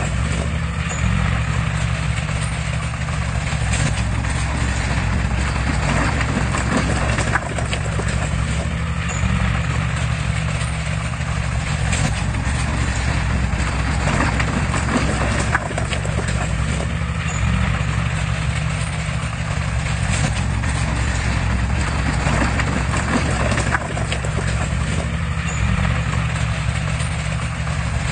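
Heavy diesel construction machinery running steadily under load, with a constant low engine note and frequent clanks and knocks throughout.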